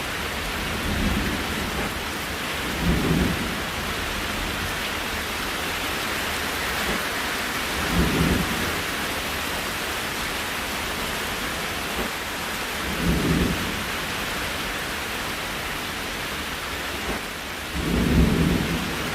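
Steady rain falling, with short low rumbles every few seconds, the strongest near the end.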